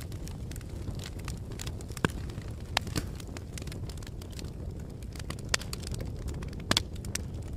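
Wood fire burning with a steady low rumble and irregular sharp crackles and pops, a few louder snaps about 2, 3, 5.5 and 7 seconds in.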